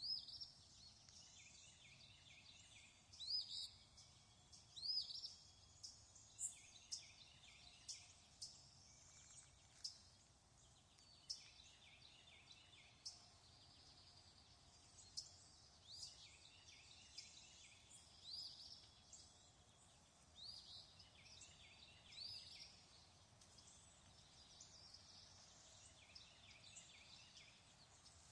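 Faint birdsong: birds chirping and singing in short, repeated phrases every second or two, over a low, steady background hiss.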